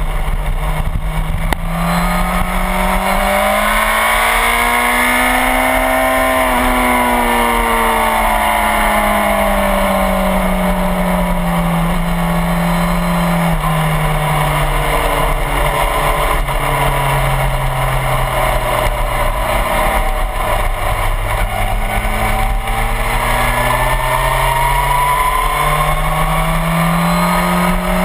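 Suzuki GSX-R1000 sportbike's inline-four engine running at moderate revs, heard from the bike's tail with steady wind rush. Its pitch rises smoothly, falls back, steps down around halfway and climbs again near the end as the rider works the throttle.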